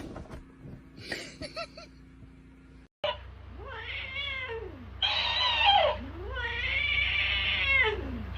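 A cat yowling: three long, drawn-out meows that rise and fall in pitch, starting about three seconds in, the middle one the loudest.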